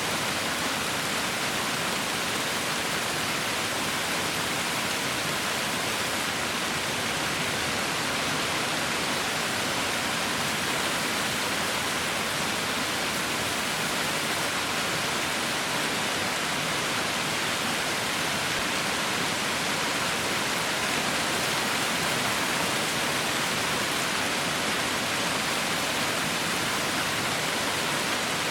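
Heavy rain falling in a steady, even hiss with no separate drops standing out.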